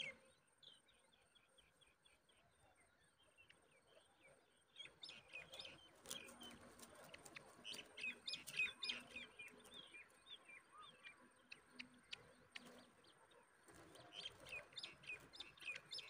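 Faint, rapid bird chirping and twittering, sparse at first and growing busier from about five seconds in, with another run of chirps near the end.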